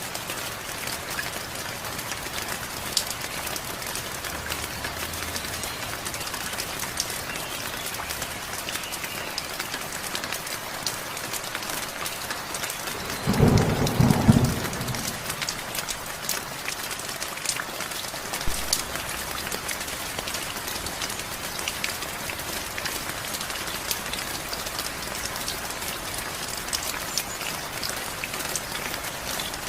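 Heavy rain falling steadily, with scattered sharp drop ticks. About 13 seconds in, a short, loud clap of thunder lasting about a second and a half is the loudest moment.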